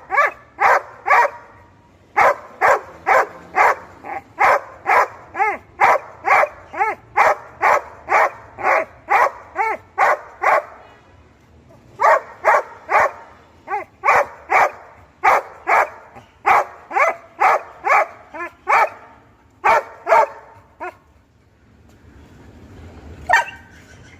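A dog barking over and over, about two barks a second, in long runs broken by short pauses, with a single bark near the end.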